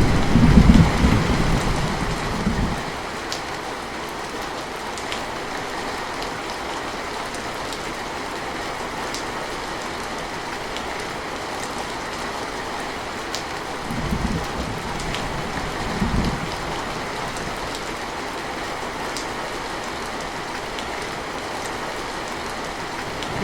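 Steady rain falling, an even hiss with scattered drop ticks. A low thunder rumble fades out over the first couple of seconds, and two brief low rumbles come a little past halfway.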